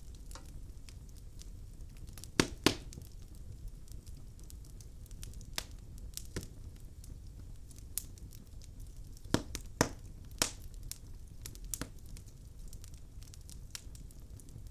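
Wood logs burning in a fireplace: irregular crackles and sharp pops over a low steady rumble. The loudest come as a pair of pops about two and a half seconds in and a cluster of three around ten seconds.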